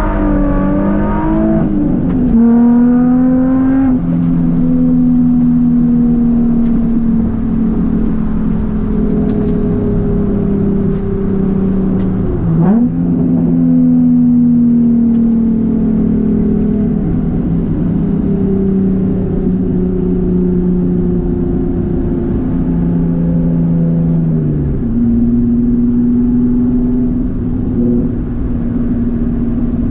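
Nissan Z33's VQ-series V6 engine heard from inside the cabin, running at fairly steady revs. Its note slides slowly down and steps up or down several times as the revs change, with a quick dip and recovery about halfway through.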